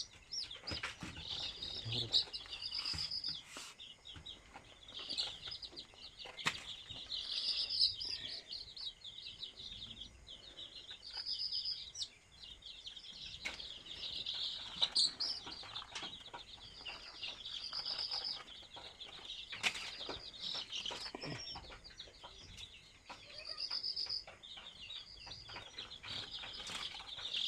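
A flock of desi chicken chicks peeping continuously, many short high chirps overlapping, with a few sharp knocks here and there.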